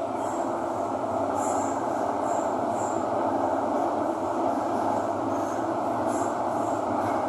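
Metro train running, heard from inside the carriage: a steady rumble of wheels and motors, with brief high-pitched wheel squeals on and off.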